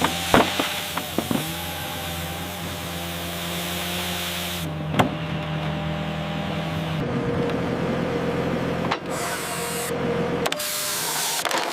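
Heavy logging machine running steadily with a low engine hum, broken by a few sharp knocks. The sound changes abruptly a few times.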